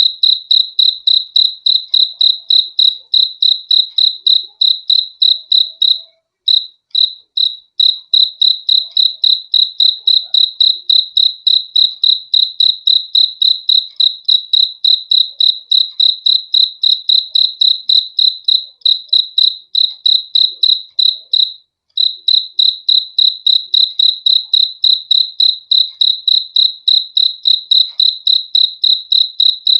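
A cricket chirping in an even, high-pitched rhythm of about three to four chirps a second, breaking off briefly twice.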